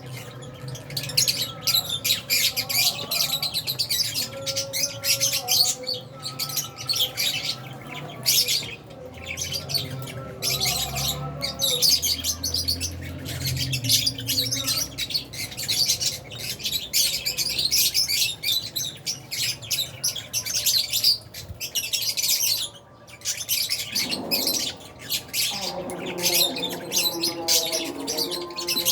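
A colony of lovebirds, Fisher's and albino lovebirds, chirping and squawking all at once in a dense, continuous chatter of high, overlapping calls.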